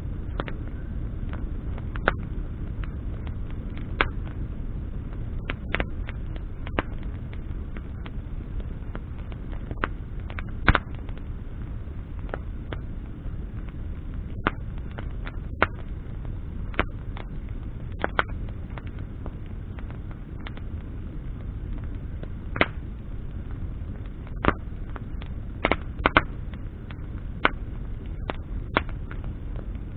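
Campfire of burning branches crackling: sharp, irregular pops and snaps over a steady low rumble.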